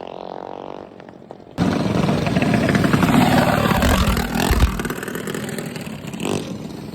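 Small mini bike engine revving with rising pitch, then about a second and a half in a sudden jump to much louder, rough engine noise with a deep rumble, easing off over the last couple of seconds.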